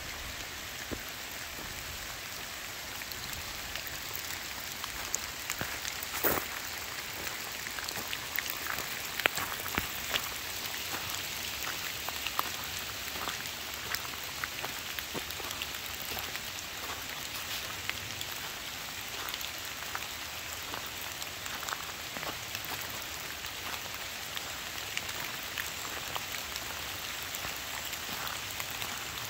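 Steady rain falling on wet leaves and gravel, with many small irregular ticks of single drops; two louder ticks land about six and nine seconds in.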